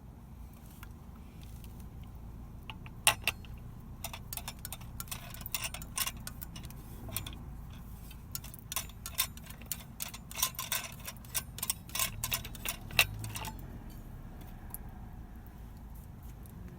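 A run of sharp, irregular clicks and clinks, starting about three seconds in and stopping shortly before the end.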